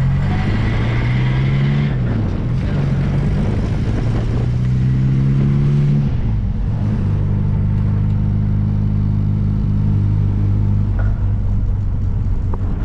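MG Midget's 1275cc four-cylinder engine driving along with the top down, wind and road noise around it. The engine note dips and rises, climbs steadily as the car accelerates, changes abruptly about six seconds in, then holds a steady pitch.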